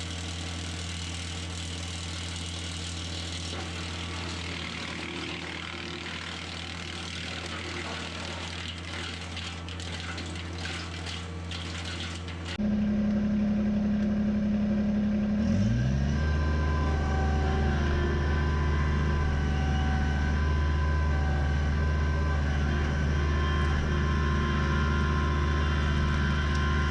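Kubota BX23S compact tractor's three-cylinder diesel running a PTO-driven Land Pride WC1504 wood chipper, a steady hum with a noisy wash and some crackling. About halfway the sound jumps louder, then engine and chipper rise in pitch, spooling up to a steady high-speed whine.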